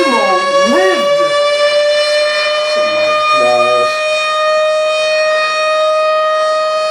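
Loud siren sound effect: one held tone slowly rising in pitch, with a few short wavering, voice-like glides over it in the first second and again about three seconds in.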